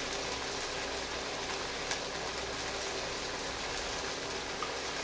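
Sardine, onion and chili paste sizzling in a wok: a steady frying hiss with a few small crackles.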